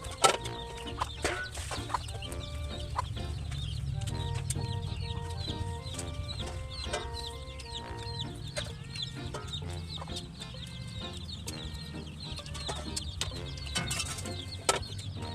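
Chickens clucking in the background throughout, over light background music with a steady low bass. There are a few sharp clicks near the start and again near the end.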